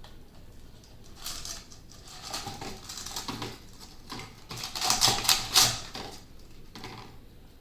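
A thin plastic drink bottle crackling and clicking in the hands while twine is pushed through holes punched near its neck. The crackles are loudest about five seconds in.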